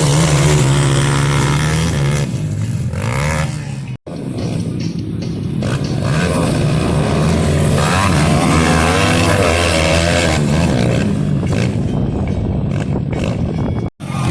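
Small four-stroke pit bike engines running and revving, with pitch rising and falling, under background music. The sound breaks off abruptly twice, about four seconds in and near the end.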